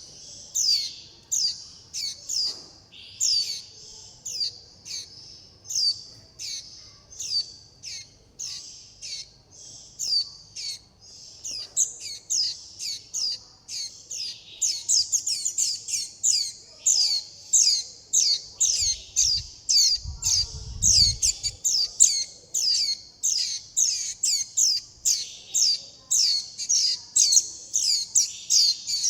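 Fledgling white-eyes begging: short, high, falling chirps repeated quickly and without pause, two to three a second, as the chicks call for their parent and for food. A brief low rumble comes about twenty seconds in.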